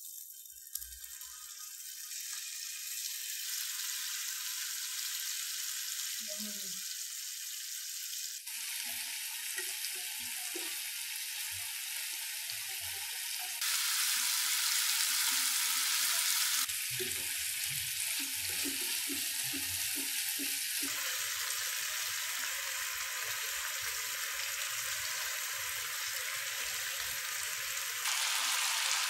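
Pieces of marinated malai chicken tikka frying with a steady sizzle, with soft knocks now and then as the pieces are moved. The sizzle builds over the first few seconds and steps up and down in loudness a few times.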